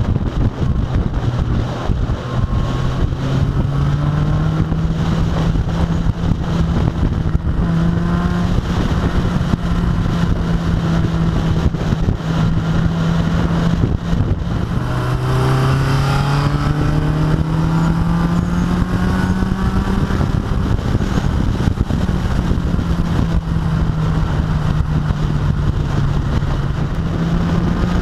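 A car's engine pulling under steady acceleration, its note climbing slowly in pitch. Partway through, the note drops sharply, as at an upshift, then climbs again. Heavy wind and road rush from the side-mounted camera runs under it.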